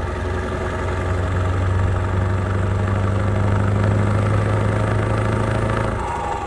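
A vehicle engine running at a steady speed, slowly growing louder.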